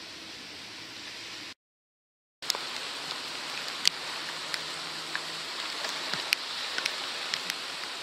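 Water around a kayak: a steady wash, cut off by a brief dead gap about a second and a half in, then returning with irregular sharp drips and small splashes.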